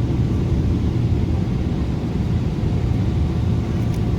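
Cabin noise inside a Boeing 777 on the ground with its GE90 engines at idle: a steady low rumble with a faint steady whine above it.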